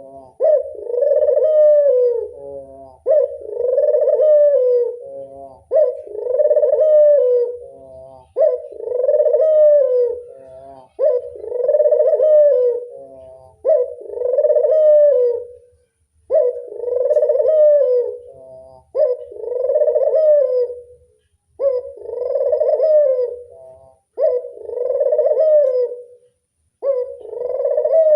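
Puter dove (domestic Barbary dove) cooing over and over, a drawn-out coo about every two and a half seconds that rises and then falls in pitch.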